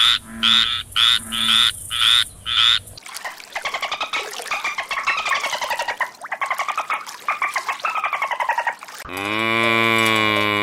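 A run of animal calls: loud croaking calls repeated about twice a second, then a fast pulsing trill that rises and falls in pitch. About nine seconds in, a long, steady, rich-toned call takes over.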